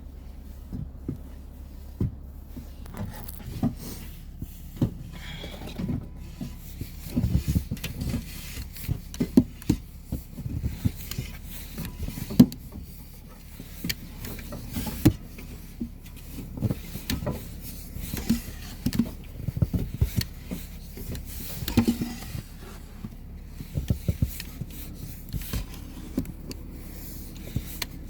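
Snow shovel scraping and knocking through deep snow: irregular scrapes and thuds, some in quick clusters.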